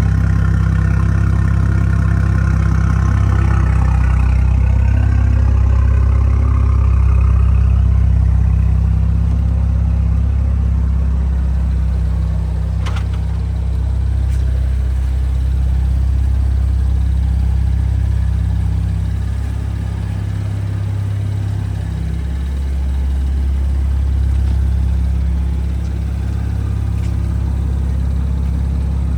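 BMW 335i's N55 turbocharged inline-six idling steadily just after being started. A higher-pitched layer fades over the first several seconds, leaving a steady low idle, with a single click about 13 seconds in.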